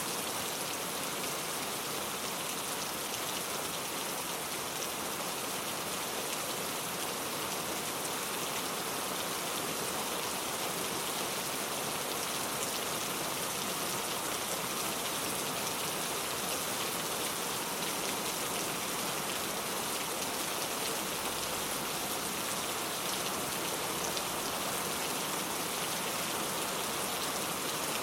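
Steady rain falling on a surface, an even hiss with no thunder or other sounds.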